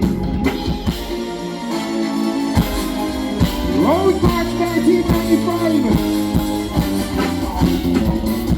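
Live band music: guitar over bass and drum kit, with some singing.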